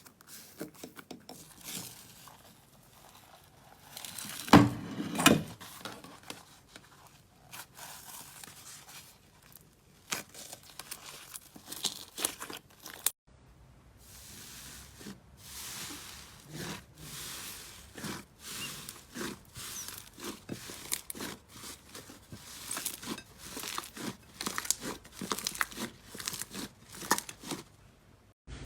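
Slime being squeezed and stretched by hand, giving irregular crackling and popping sounds, loudest about four to five seconds in.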